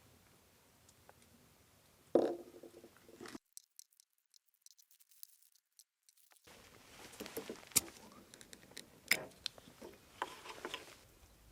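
Small clicks and rustling of things being handled at close range, broken about three and a half seconds in by some three seconds of dead silence.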